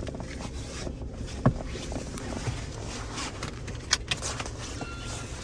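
Car running and rolling slowly out of an automatic car wash bay, a steady low rumble. A few sharp clicks are heard over it, the loudest about one and a half seconds in.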